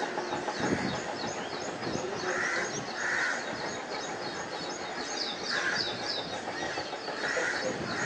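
Birds calling: a fast, steady run of short, high, falling chirps, with a few harsher, lower calls about two and a half, three, five and a half and seven and a half seconds in.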